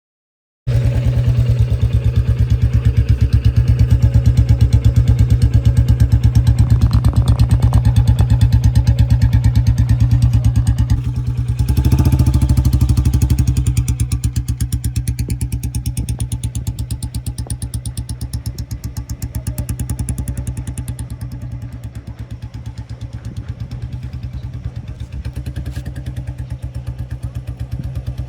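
Royal Enfield Bullet 350 single-cylinder engine running at low speed through an aftermarket silencer, a steady exhaust thump. It starts suddenly about a second in, is loudest around the middle, then fades as the bike moves off, with a slight rise near the end.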